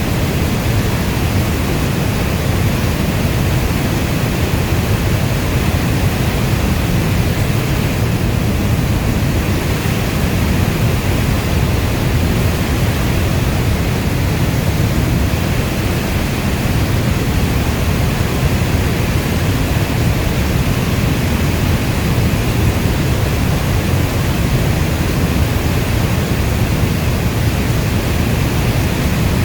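Steady rainstorm ambience: a dense, even rush of rain, heaviest in the low end like brown noise, with no distinct drops, thunder or changes.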